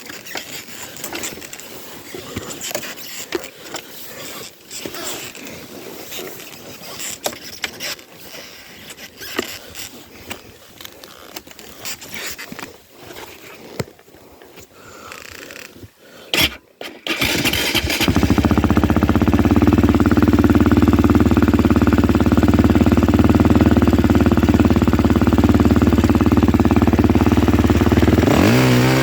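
Clattering and knocking for a while, then a small engine starts about two-thirds of the way in and runs steadily and loudly, with its pitch beginning to change near the end.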